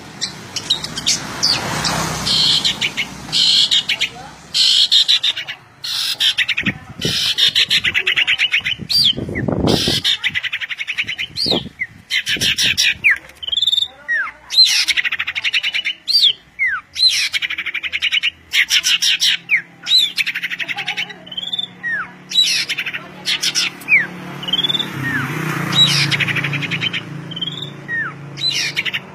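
Songbirds singing: rapid chattering trills mixed with short, sharply falling whistles, almost without pause.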